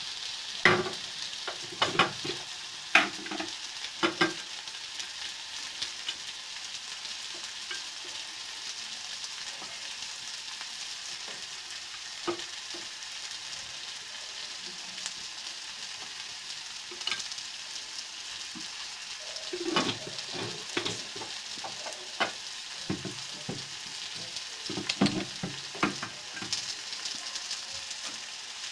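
Sliced onion, tomato and potato sizzling steadily in hot oil in a steel pan. A spoon clinks and scrapes against the pan in two spells, in the first few seconds and again about two-thirds of the way in.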